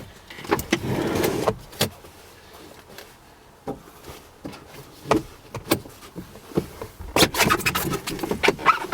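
Clicks, knocks and rustling of a two-door Jeep Wrangler's front seat being tipped and slid forward to reach the back seat, with a dense run of clicks and shuffling near the end.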